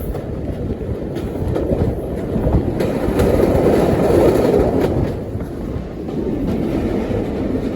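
Passenger train hauled by a Class 45 'Peak' diesel running along, its wheels on the rails, with a louder rush of running noise from about three to five seconds in.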